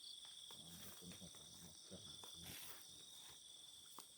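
Faint chorus of night insects, a steady high trilling in several held pitches. A few soft low scuffs sound under it.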